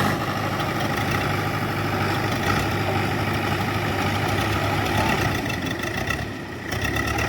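Tractor diesel engine running steadily at a low, even note, briefly a little quieter about six seconds in.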